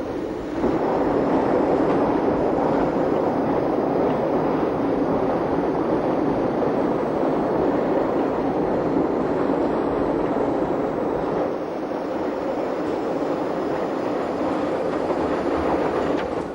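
Jungfrau Railway train running uphill through the rock tunnel inside the Eiger, a steady dense rumble that grows louder about a second in and eases slightly after about eleven seconds.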